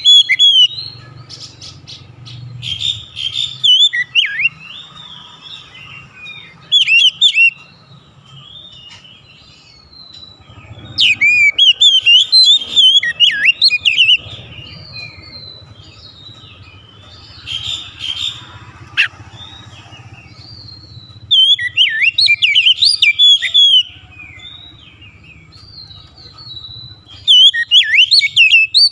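Oriental magpie-robin (kacer) singing: loud bursts of rapid, varied whistles and chirps every few seconds, with softer warbling phrases in between.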